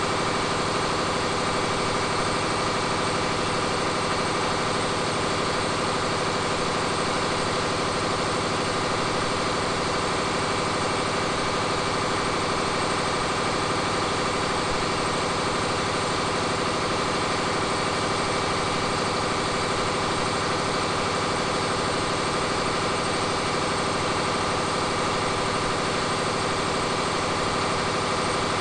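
Caterpillar 3508B V8 diesel engine running on a dynamometer at a steady speed, its pitch and loudness unchanging.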